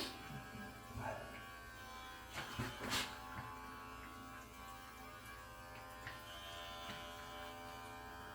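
Electric pet hair clippers running with a steady buzz while shaving a cat's coat, with a couple of brief rustles about two and a half to three seconds in.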